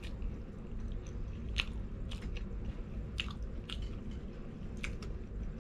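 A person chewing crispy fried chicken with the mouth close to the microphone: wet chewing with scattered sharp crunches of the breading.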